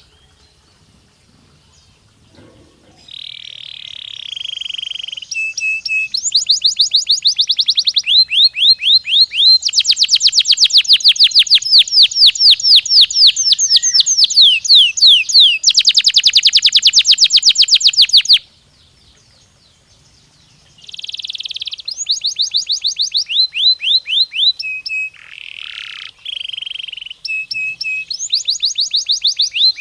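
Domestic canary singing: phrases of rapid, evenly repeated notes, each trill at its own speed and pitch, running one straight into the next. The song stops twice, at the start and about two-thirds of the way through, then starts again.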